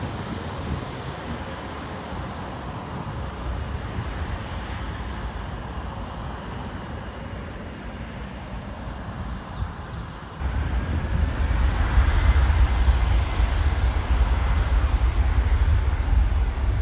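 Jet airliner engine noise: a steady rush that about ten seconds in jumps abruptly to a much louder, deeper rumble, with a faint rising whine over the next couple of seconds.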